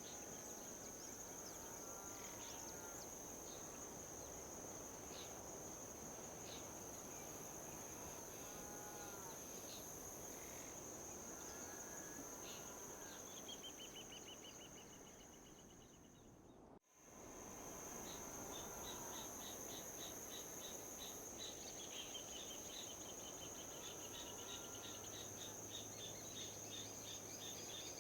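Outdoor nature ambience: a steady high-pitched insect drone over a soft, even rush of wind, with scattered short bird calls. The sound fades down and cuts out for an instant just past halfway, then comes straight back.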